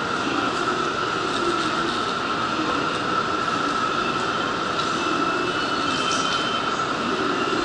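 Steady hum of a Shinkansen train at the station platform, with a constant high whine and a brief higher tone about six seconds in.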